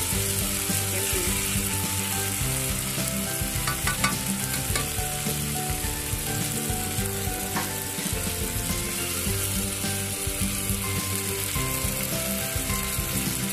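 Diced onion, garlic and tomato sizzling steadily as they fry in oil in a saucepan, stirred with a spatula at the start.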